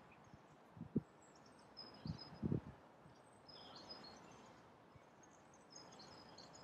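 Small birds chirping in short, quick, high-pitched phrases over a faint outdoor hush. A few soft low thumps, the loudest about one and two and a half seconds in.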